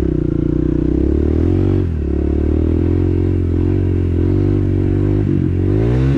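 Dirt bike engine running under way, its revs rising and falling several times as the throttle is worked.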